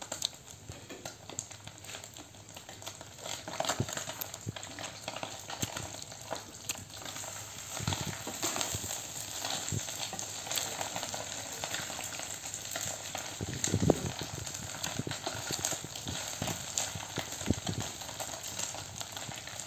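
Close-up chewing and crunching of crispy fried food: a continuous crackly noise with sharper crunches here and there.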